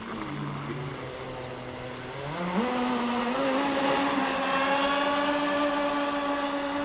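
High-speed electric RC catamaran (Oxidean Marine Animal Twin) running on a speed pass, its motors giving a steady whine. The pitch climbs sharply about two and a half seconds in as the throttle is pushed, then holds high.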